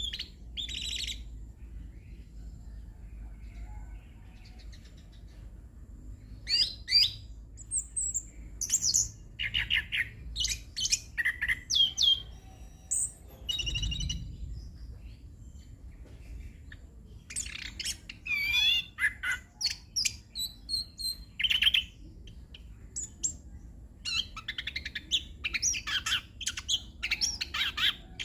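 Chestnut-capped thrush (anis kembang) singing its long varied song of quick, high, whistled phrases in several bursts with short pauses between them, over a faint low background rumble.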